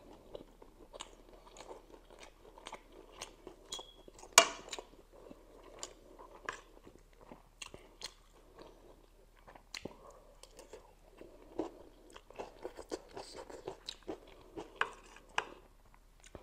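Close-miked chewing of spicy instant noodles and chilli momo, with many small irregular mouth clicks. About four seconds in comes one loud clink of metal cutlery on the ceramic plate, ringing briefly.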